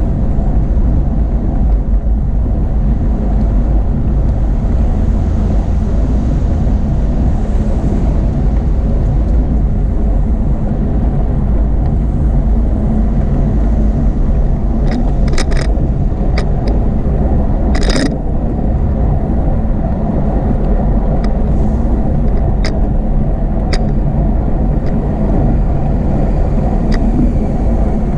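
Steady low rumble of wind buffeting the microphone of a camera riding on a moving bicycle, with a few sharp clicks about halfway through.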